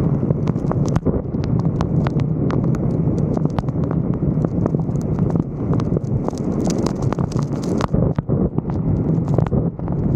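Wind buffeting the microphone of a roof-mounted 360° camera, a steady low rumble, with many irregular sharp taps throughout.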